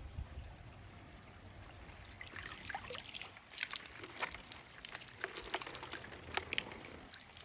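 Pond water trickling, then from about two seconds in a busy run of sharp, irregular splashes and clicks at the water's surface.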